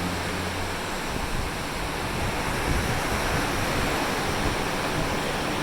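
Steady rush of ocean waves and wind heard from high on a cruise ship's deck. A low steady hum fades out about a second in.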